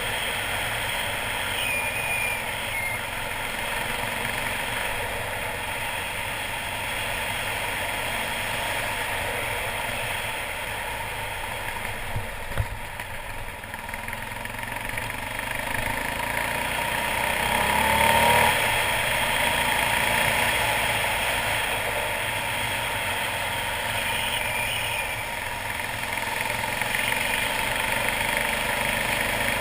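Suzuki DR800's big single-cylinder engine running as the motorcycle is ridden, heard on board. The engine swells louder about two-thirds of the way through, and there is one sharp click a little before that.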